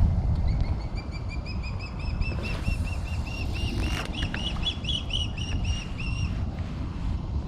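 A bird calling: a long run of short, high whistled notes, about four or five a second, rising slightly in pitch at first and then holding steady before stopping near the end. A steady low rumble of wind or water runs underneath.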